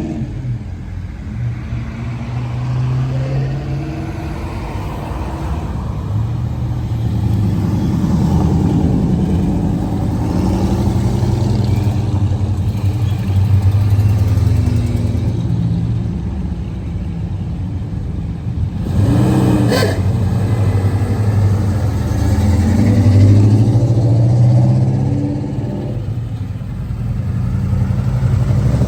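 Car engines running, their pitch rising and falling as the cars rev and move about.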